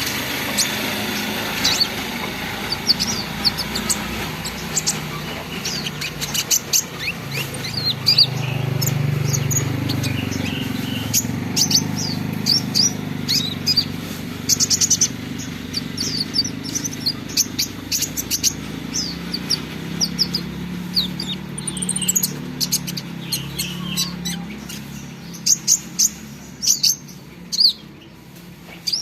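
Olive-backed sunbird (kolibri ninja) singing a fast, chattering run of short, high chirps, over a low steady hum.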